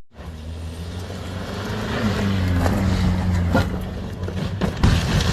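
A car driving, its engine and road noise a steady low hum, with a few sharp knocks in the second half, the loudest near the end.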